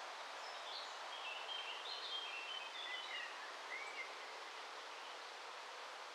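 A bird singing a quick run of short, high chirping notes for about three and a half seconds, over a steady outdoor hiss.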